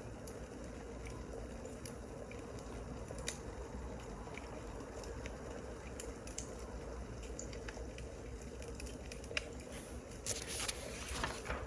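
Wood fire crackling: a steady low hiss with scattered sharp pops and snaps, and a short denser rustle near the end.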